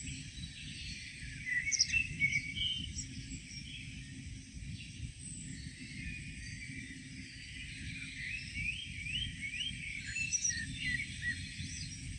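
Several songbirds chirping and singing in a morning chorus, with short whistled notes throughout and a run of quick rising chirps about two-thirds of the way through, over a steady low rumble.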